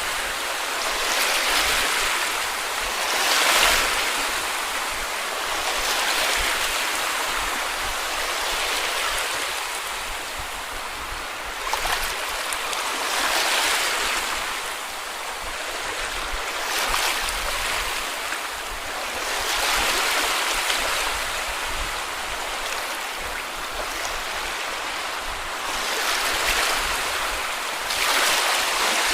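Sea waves breaking and washing up a beach, the rush of water swelling and easing every few seconds.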